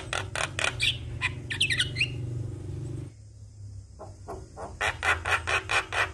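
Javan myna calling: fast runs of harsh, grating notes, about five a second, broken by a few whistles that rise and fall. The calls drop off for a moment about halfway through, then the rapid harsh notes start again.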